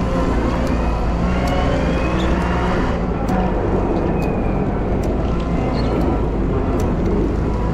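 Volvo wheel loader's diesel engine running steadily under load, with a whine that rises and falls and a light tick about once a second.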